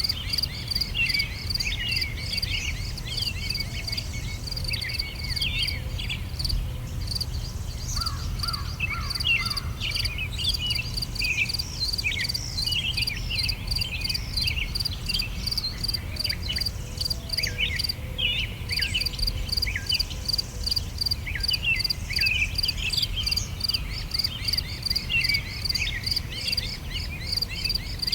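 Summer outdoor ambience: insects chirp in a steady, even pulse while many small birds call with short chirps throughout. A low steady rumble sits underneath.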